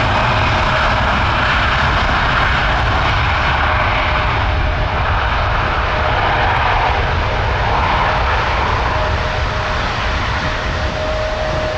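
Jet engines of a Boeing 787-10 airliner running loud and steady, a rushing noise with a thin steady whine through it, easing slightly near the end.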